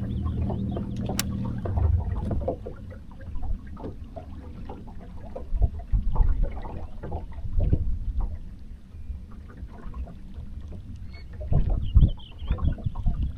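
Sounds on a bass boat: a steady low motor hum that cuts out about two seconds in, then irregular low thumps and knocks.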